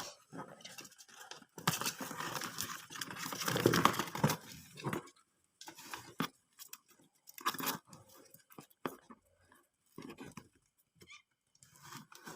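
Cardboard box rustling and crunching as a hand reaches in to take out the last bird. A dense stretch of scraping in the first half, then scattered short rustles and knocks.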